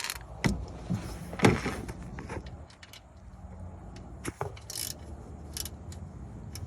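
Scattered metal clinks and knocks as the oil drain bolt is put back into the oil pan and tightened, the loudest knock about one and a half seconds in.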